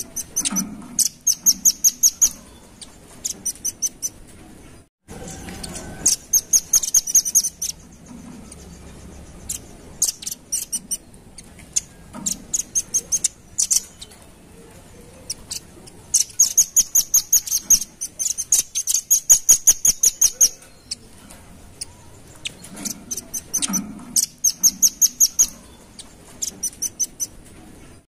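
Velvet-fronted nuthatch (rambatan paruh merah) calling: rapid runs of sharp, high chipping notes in bursts of a second or two, with one longer run of about four seconds past the middle. The recording cuts out for a moment about five seconds in.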